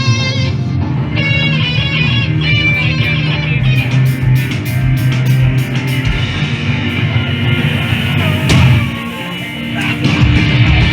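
Live punk/emo band playing loud, with electric guitars over bass and drums. The volume dips briefly about nine seconds in, then comes back up.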